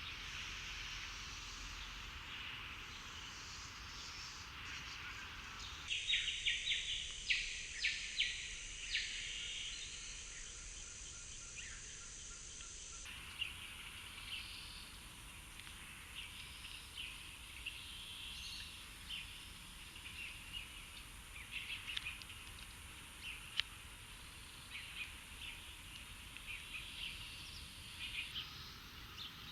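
House sparrows chirping: short, repeated chirps, loudest and densest in a cluster a few seconds in, then scattered, over a steady high background hiss.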